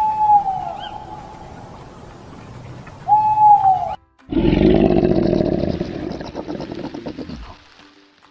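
An animal call given twice, each a short clear hoot that dips slightly in pitch, about three seconds apart. After a brief cut, a different animal gives a loud, rough, roar-like call lasting about three seconds that fades out.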